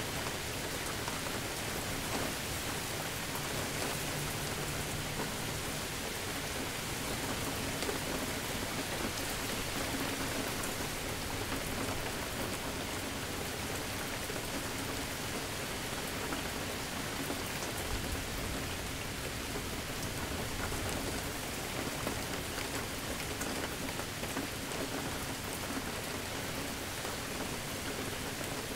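Steady, even rainfall from a thunderstorm, drops pattering continuously on surfaces, with a faint low rumble joining it a little past the middle.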